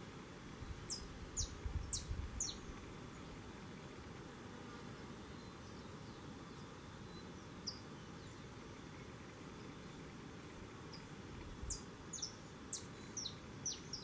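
A small songbird giving quick, high, thin call notes that each slide downward, in a rapid run of four or five about a second in and again near the end, with one lone note in between. Low bumps come along with each run.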